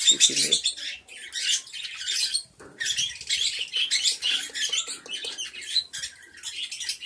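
Budgerigars in a colony aviary chattering with a dense, continual stream of quick high-pitched chirps and warbles.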